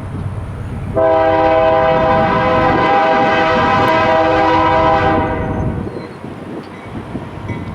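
BNSF locomotive air horn sounding one long, steady blast of about four seconds, a chord of several notes, over the rumble of the oncoming train. The horn cuts off about five seconds in, leaving the train's rumble.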